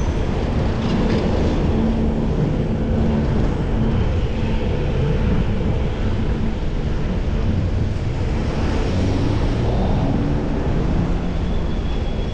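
Steady rush of wind and road noise while cycling, with a low hum of motor traffic underneath.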